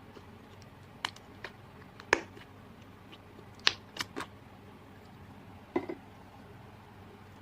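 Slime mixed with add-ins being squeezed and pressed by hand, giving scattered sharp clicks and pops, about seven in all, the loudest about two seconds in and near the middle.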